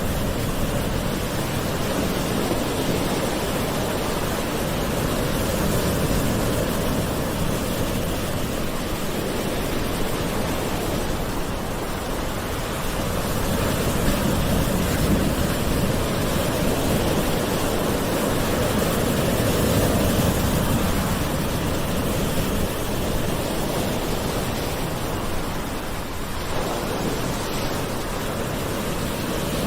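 Gentle ocean waves, a steady rushing wash that swells and eases slowly every few seconds.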